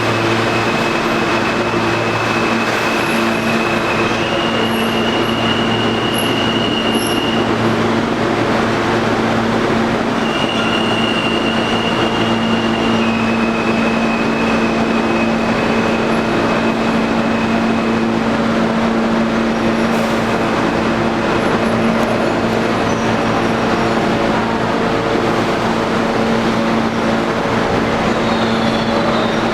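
New York City Subway R160B train with Siemens AC traction propulsion running, its traction motors and inverters making a steady hum with a high whine that steps up and down in pitch several times, over the continuous rumble of steel wheels on the rails.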